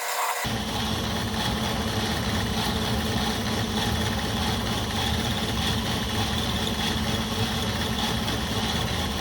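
Electric workshop machine, such as a buffer or grinder motor, running steadily with a low hum and a hiss on top.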